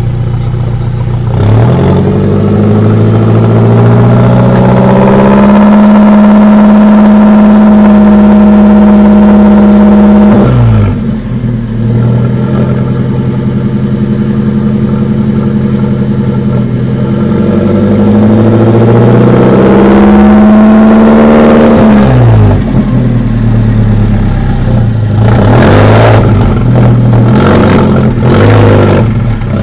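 Alfa Romeo Mole Costruzione Artigianale 001's engine revved while the car stands still. It climbs and holds high for several seconds, drops back about ten seconds in, then climbs and holds again. Near the end come several short, quick blips of the throttle.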